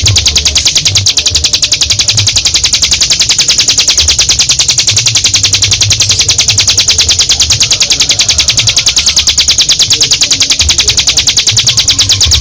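Ciblek gunung, a prinia, singing one long unbroken trill of rapid high notes, about ten a second: the 'ngebren' drilling song.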